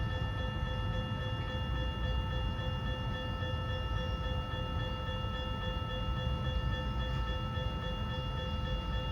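Freight train rolling through a grade crossing, a steady low rumble of wheels and cars, with the crossing's warning bell ringing steadily over it the whole time.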